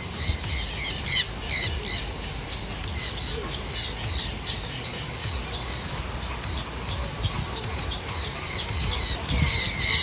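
Birds squawking and calling: many short, high calls repeated throughout, loudest about a second in and again near the end, over a low background rumble.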